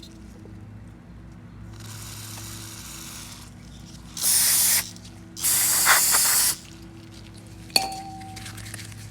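Aerosol carburetor cleaner sprayed in two short hissing bursts onto a carburetor during cleaning, followed by a sharp metallic clink.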